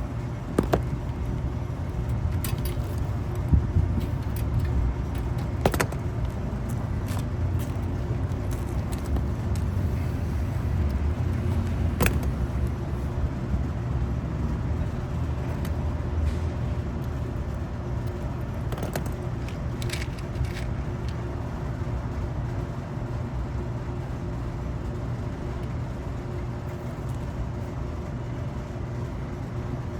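Steady low rumble throughout, with scattered small clicks and taps as wires and terminals on an air conditioner's capacitor are handled.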